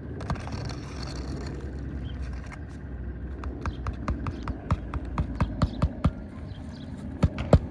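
A run of sharp taps, about two to three a second and loudest near the end, like a hammer driving roofing nails as a shingle is fastened down. A steady low wind rumble is underneath.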